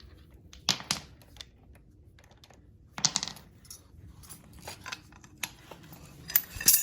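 Hand tools clinking on metal: a socket and breaker bar being fitted and worked on a bolt. It comes as a series of sharp metallic clicks and knocks with a short scrape about three seconds in, loudest near the end.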